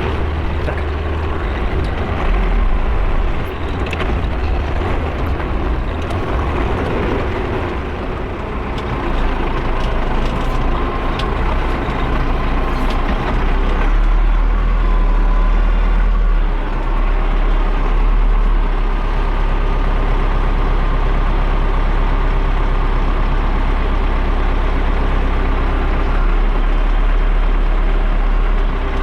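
Tractor engine running steadily while pulling a KZK 9.2 field roller. It gets a little louder and heavier about halfway through.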